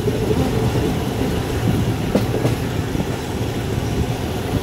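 Passenger train running along the track, heard from inside a carriage: a steady low rumble of wheels on rails, with two sharp clacks a little after two seconds in.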